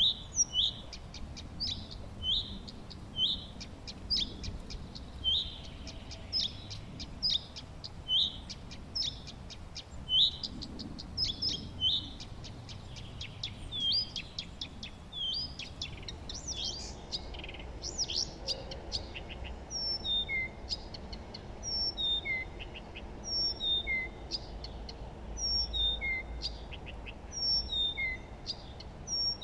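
Songbirds singing: short, sharp chirps repeated about once a second. About halfway through they give way to a different pattern of short falling notes.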